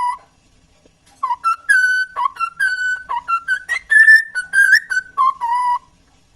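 A parrot whistling a tune: a run of short, clear whistled notes that step up and down in pitch, with a brief pause about a second in before the melody starts.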